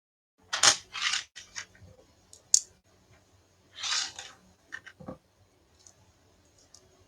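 After a moment of dead silence, a few short scraping, rustling noises and sharp clicks, the loudest two scrapes and a click within the first few seconds.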